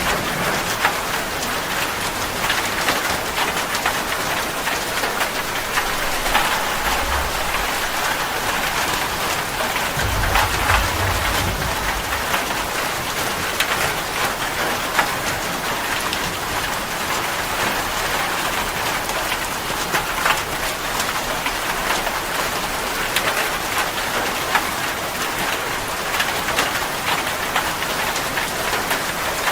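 Steady rain, with many individual drops ticking sharply against a surface over a constant hiss. A brief low rumble comes in about ten seconds in.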